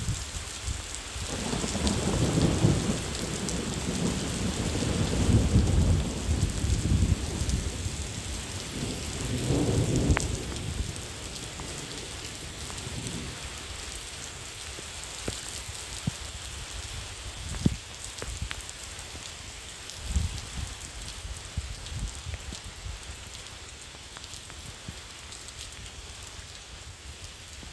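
Steady rain falling, with a long low rumble of thunder through the first half that swells twice and dies away. A few sharper drips strike close by later on.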